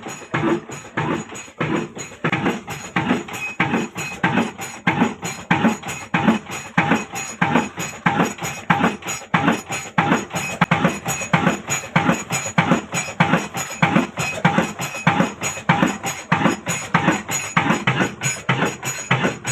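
Old Ruston diesel engine running at slow speed, a steady rhythmic knocking of about four beats a second with a clattery metallic edge.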